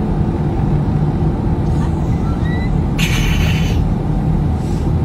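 Steady low rumble like a running vehicle, with a short hiss about three seconds in and a couple of faint high squeaks just before it.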